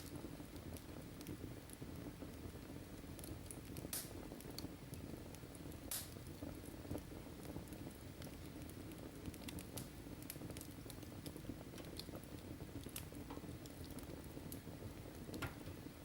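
Fireplace fire crackling faintly: scattered sharp pops and snaps over a low steady rumble, with two louder pops about four and six seconds in.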